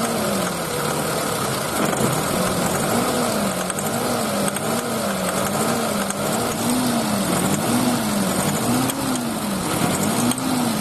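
Car petrol engine idling while its ignition distributor is turned to reset the ignition timing, which is off and causing a timing knock under acceleration. The engine's pitch rises and falls steadily about once a second.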